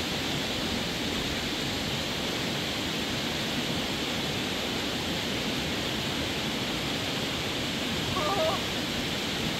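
Steady rushing noise with no rhythm, and a brief high wavering sound about eight seconds in.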